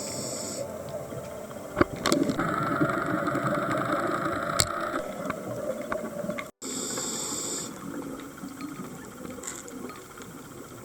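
Underwater camera audio of a scuba diver breathing through a regulator: hissing breaths and bubbling exhalations over a steady muffled rumble, with a few clicks and an abrupt cut a little past halfway.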